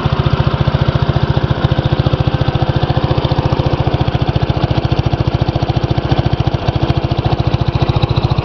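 Gravely 810 tractor's 10-horsepower Kohler cast-iron single-cylinder engine running at a steady speed, an even, unbroken chugging. The engine runs smoothly.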